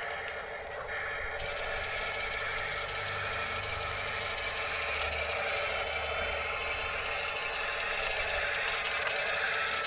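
Steady whine of the small electric motors and gearboxes of radio-controlled toy construction machines at work.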